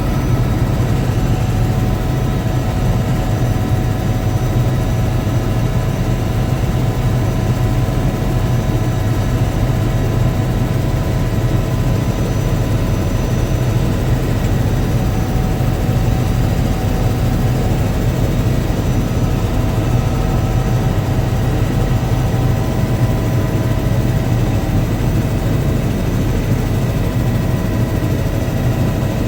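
Helicopter's turbine engine and rotor running steadily in flight: a constant low drone with a steady higher whine over it.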